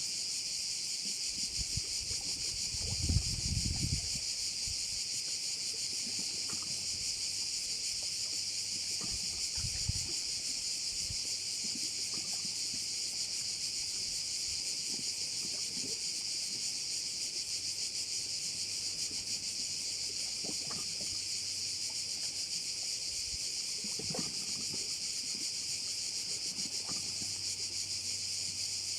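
A dense, steady chorus of crickets, high-pitched and unbroken. Brief low rumbles, like wind buffeting, come about three seconds in, the loudest moment, and fainter ones near ten seconds and later.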